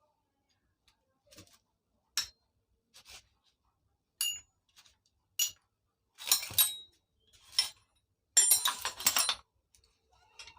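Loose metal parts of a dismantled Stihl 070 chainsaw clinking and clattering as they are handled and set down: a few single clinks, then denser bursts of clatter in the second half.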